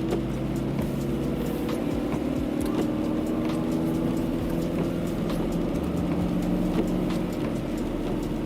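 Car climbing a wet mountain road: a steady engine drone under the hiss of tyres, with scattered light ticks.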